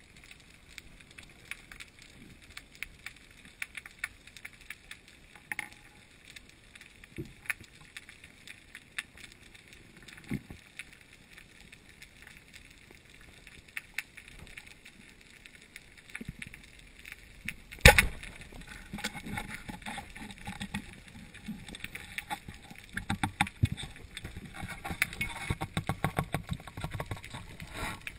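Underwater sound picked up by a diving camera: scattered sharp clicks and crackles over a faint hiss. One loud sharp knock comes about two thirds of the way through, and the crackling grows denser after it.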